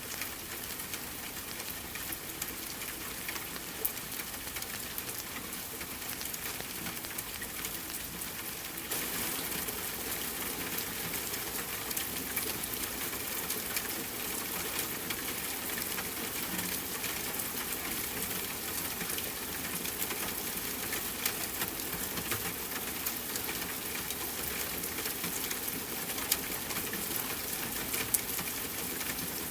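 Soft rain pattering against a window, mixed with a wood fire crackling in a fireplace. The rain hiss gets a little louder about nine seconds in, and a few sharper pops stand out.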